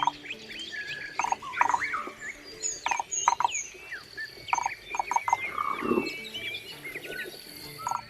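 Several wild birds calling and singing together: a busy mix of sharp chirps, quick sweeping whistles and short notes repeated in twos and threes.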